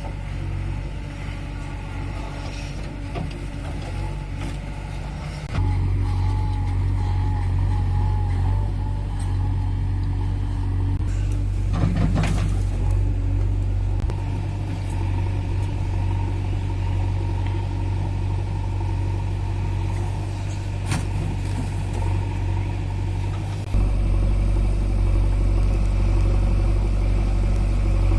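Heavy diesel machinery running under load: a JCB backhoe loader and a tractor, a steady low engine drone. It gets abruptly louder about five seconds in and again near the end, with a short rattling burst about twelve seconds in.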